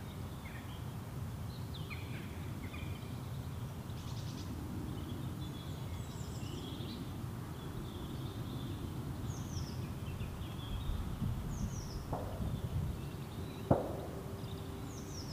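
Woodland ambience: small birds chirping and calling with short, quick descending notes over a low steady rumble. A single sharp click near the end.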